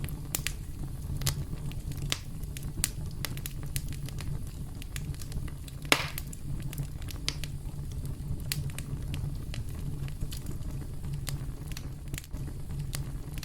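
Campfire crackling: a wood fire with frequent sharp pops and snaps over a low, steady rumble of flame, and one louder pop about six seconds in.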